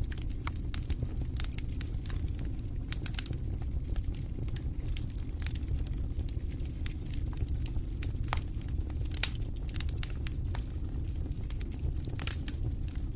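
Wood fire burning in a fireplace: irregular crackles and pops over a steady low rumble of the flames, with one sharper pop about nine seconds in.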